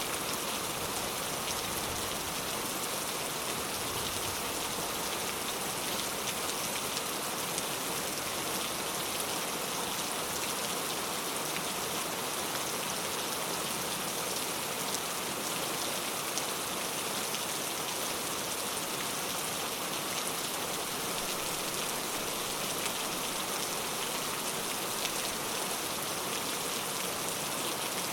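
Steady rain falling, a dense even hiss of drops hitting a surface with fine individual drop ticks throughout.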